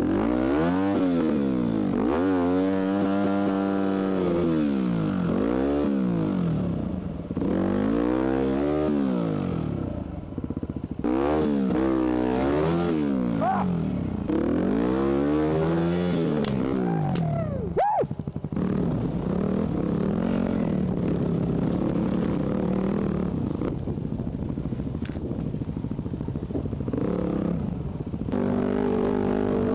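Enduro dirt bike engine revved up and down again and again, its pitch rising and falling in about five surges. A sharp knock comes about eighteen seconds in, then the engine runs more steadily near a constant pitch.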